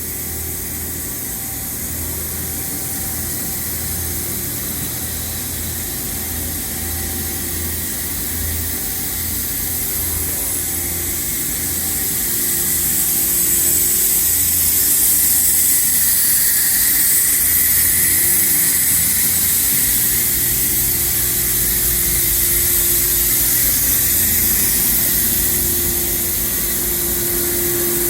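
Okuma MC-V4020 CNC vertical machining center running: a steady hiss over a low hum with a faint steady tone, growing somewhat louder about halfway through.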